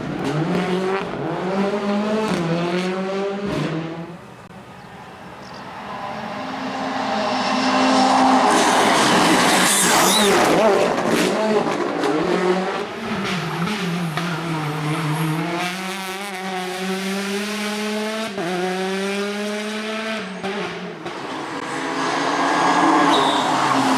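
Rally cars at full attack on a special stage, engines revving hard and dropping back at each gear change as they approach and pass, with some tyre squeal.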